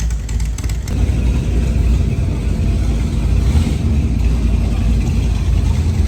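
A car engine running with a loud, low rumble.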